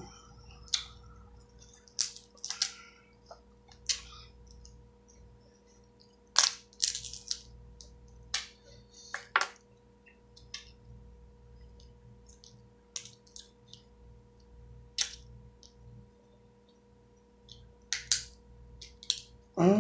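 Eating crab and shrimp in a spicy sauce: scattered sharp cracks and crunches of shells being broken open, with wet mouth clicks and smacks.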